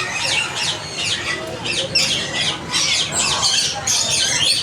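African parrots calling: a rapid, unbroken stream of overlapping shrill squawks and chirps.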